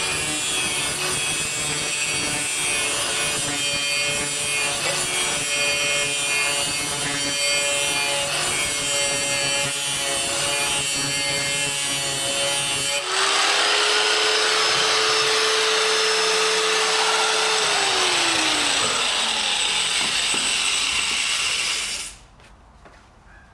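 Power grinder sharpening a steel SCAG mower blade, the wheel grinding steadily under load. About thirteen seconds in the sound shifts to a steady whine that then falls in pitch as the grinder winds down, and it cuts off near the end.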